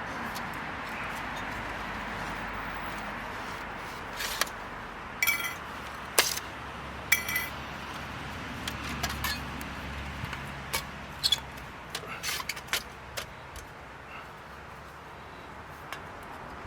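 Metal pieces clinking and knocking, a few strikes ringing briefly, over a steady outdoor hiss, with a low hum swelling and fading in the middle.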